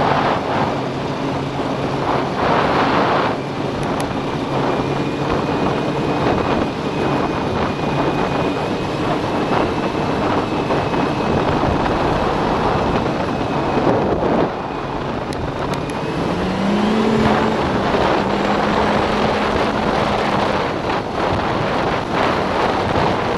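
Snowmobile engine running hard at speed, with the track and wind rushing past the microphone. About two-thirds of the way through, the engine pitch rises and then holds.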